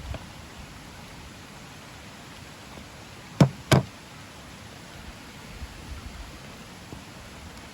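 Two sharp knocks about a third of a second apart, over a steady faint hiss.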